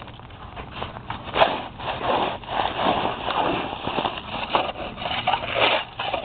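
A shovel scraping and breaking up crusted sleet and ice in a run of irregular gritty strokes.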